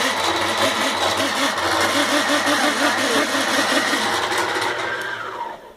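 Electric sewing machine running fast and steady with a rapid mechanical rhythm. Near the end it winds down in pitch and stops, shutting itself off.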